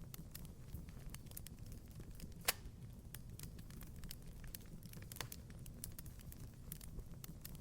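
Wood fire crackling in a fireplace: a low steady rumble of flames with scattered sharp pops and snaps, the loudest pop about two and a half seconds in.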